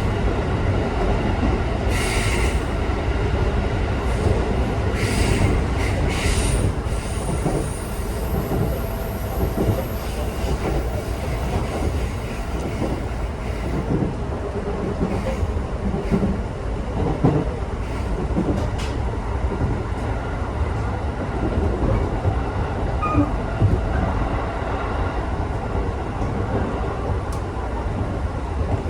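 Local electric train running along the line, heard inside the carriage: a steady low rumble of wheels on rail. Short high hisses come in a few seconds in, and a thin high wheel squeal follows soon after.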